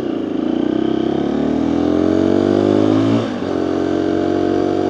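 Dual-sport motorcycle engine accelerating, its pitch climbing for about three seconds, dropping briefly at a gear change, then running steadily in the next gear. Heard from a microphone inside the rider's helmet.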